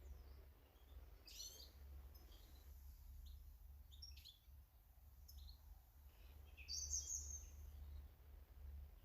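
Faint garden birds chirping: short, scattered high calls, the loudest a little before the end, over a steady low hum.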